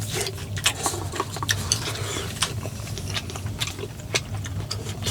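Close-up eating sounds: someone chewing tteokbokki rice cakes, with irregular wet smacks and sharp clicks several times a second, over a steady low hum.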